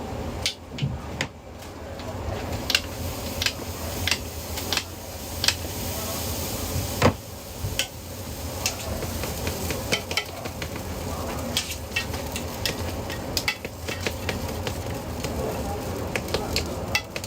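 Metal cooking utensils clinking and scraping against pans in irregular sharp clicks, the loudest about seven seconds in, over a steady sizzle of frying food.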